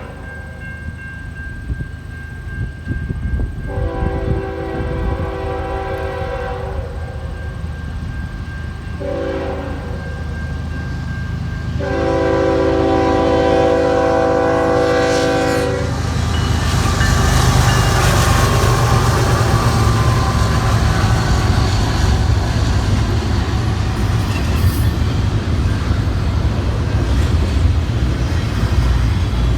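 Diesel locomotive's multi-tone horn sounding a series of blasts, long ones and one short one, typical of a grade-crossing signal. About halfway through the horn stops and the double-stack freight train rumbles and clatters past close by, with wind buffeting the microphone throughout.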